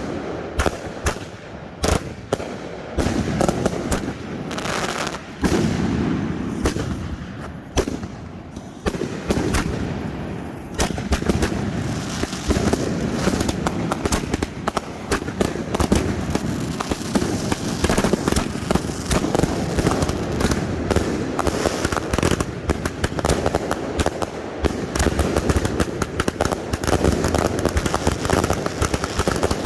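Finale of consumer firework cakes firing: separate sharp reports at first, then from about ten seconds in a dense, almost unbroken barrage of rapid bangs and crackling as many cakes go off together.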